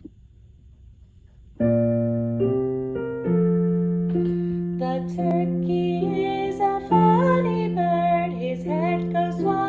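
Piano or keyboard starts playing about a second and a half in. A woman's singing voice joins about halfway through.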